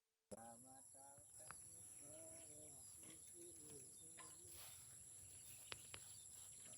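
Faint outdoor ambience with distant voices and a steady high-pitched whine, like insects, starting suddenly just after the start. Two sharp clicks come near the end.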